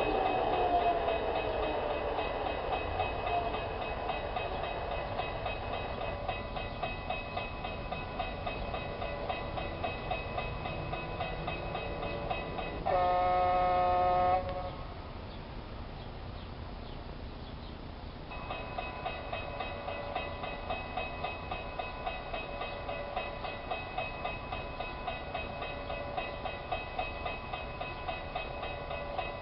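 G-scale garden railway model train running on its track, a steady hum with regular ticks as it rolls, and a horn sounding once for about a second and a half midway. The hum and ticks drop away for a few seconds after the horn, then come back.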